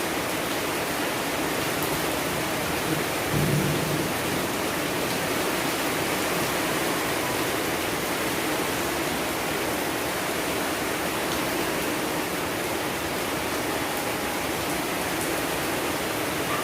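Steady rain falling, an even hiss, with a brief low rumble about three seconds in.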